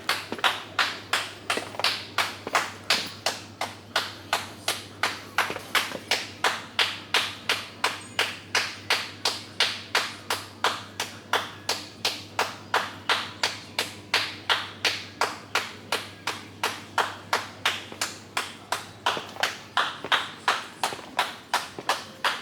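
Footsteps striking a hard path in a brisk, even rhythm of about three steps a second.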